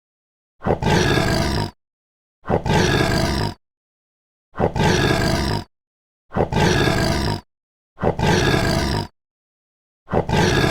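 Big-cat roar sound effect, six short roars of about a second each, evenly spaced, with dead silence between them.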